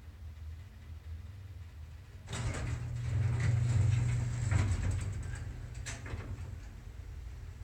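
Payne traction elevator's doors sliding, driven by the door operator with a low hum, starting about two seconds in and running for about three seconds, with a few clicks and a sharp click near the end.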